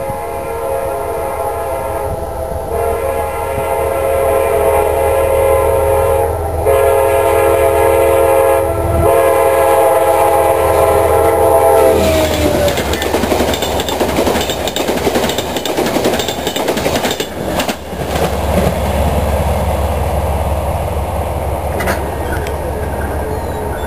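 Diesel locomotive sounding its multi-note air horn in four blasts with short gaps as it nears a grade crossing, the chord dropping in pitch as the locomotive passes. Then the train rolls by at speed, with a steady engine drone under the rumble and clatter of wheels on the rails.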